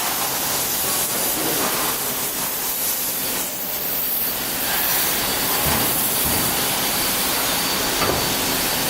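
CNC panel saw running: a steady hissing noise with a faint high whine over it.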